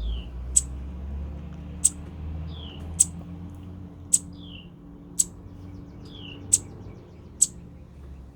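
Small songbird chirping: seven short, sharp, very high chirps about one a second, with a few softer falling notes in between. A low rumble runs underneath.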